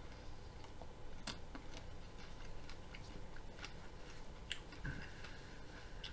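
Someone chewing a mouthful of raw broccoli: faint, unevenly spaced crunches and clicks, the sharpest about a second in. The dense, hard stalks need a lot of chewing.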